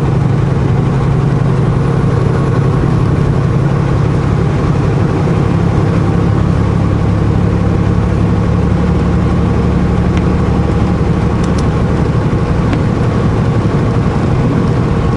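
Semi truck's diesel engine running steadily at cruise, with a constant low drone and road noise.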